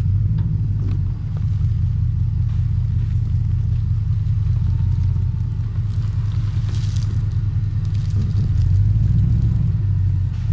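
Toyota LandCruiser 100 Series engine running at low revs, a steady low rumble, as the four-wheel drive is eased slowly backwards.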